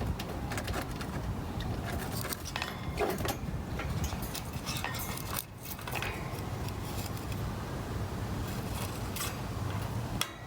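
A parrotlet's beak gnawing on a yucca chew toy: irregular scratchy clicks and scrapes, with a steady low hum underneath.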